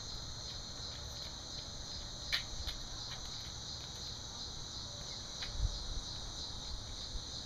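Steady background chirring of crickets, with a couple of faint clicks and a soft low thump about two-thirds of the way through.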